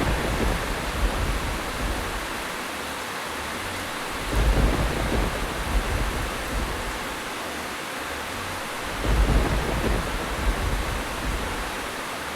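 Steady heavy rain hiss with deep thunder rumbles swelling in three times, about every four to five seconds.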